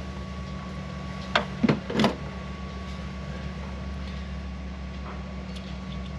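Three sharp clicks from a hand tool working the injector hold-down bolt, about a second and a half to two seconds in, over a steady mechanical hum.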